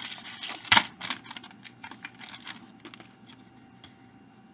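Baseball cards being handled and flipped through: a run of small clicks and rustles, with one sharper snap about three-quarters of a second in, growing quieter in the second half.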